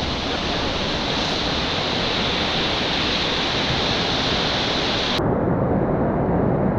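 Steady rush of a whitewater river. About five seconds in, the sound cuts abruptly to a duller, lower rush with wind buffeting the microphone.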